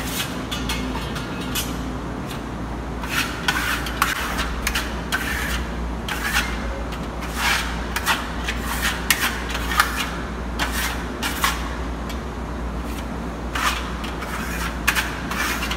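Steel trowel and spatula scraping as burnt-cement effect paste is loaded and spread on a wall, in short irregular strokes. The strokes are bunched in the middle and come again near the end, over a low steady hum.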